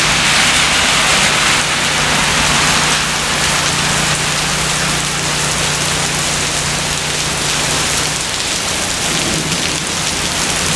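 Heavy thunderstorm downpour, rain pouring steadily and loudly. A low steady hum runs underneath and fades out about eight seconds in.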